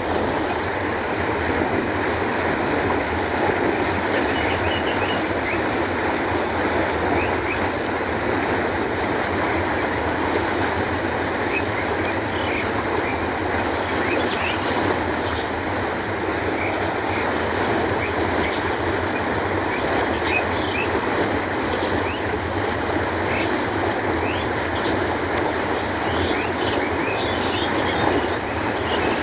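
Canal water flowing steadily with a constant rushing. Small birds chirp briefly now and then, more often in the second half.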